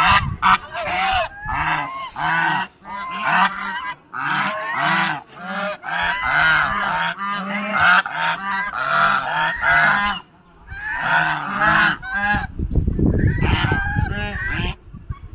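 A flock of domestic poultry calling loudly over and over, many calls overlapping. A low rumble runs under the calls near the end.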